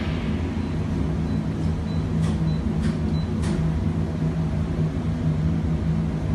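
Generator running with a resistive load bank switched on: a steady low drone with a hum. Three faint clicks come a little past two seconds in, about half a second apart.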